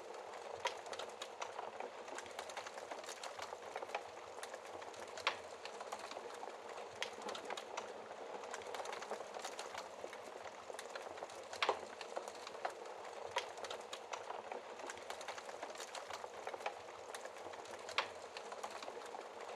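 Wood fire crackling in a fireplace: a steady soft hiss of burning with frequent small ticks and a handful of sharper, louder pops spread through.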